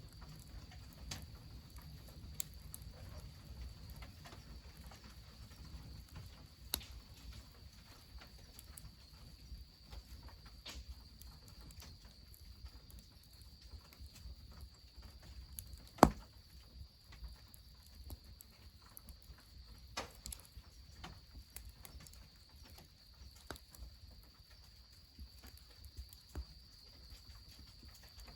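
Wood fire crackling under a goemon-buro bath, with scattered sharp pops and one much louder snap about halfway through. Behind it run a steady high insect trill and the low rush of mountain spring water running into the tub.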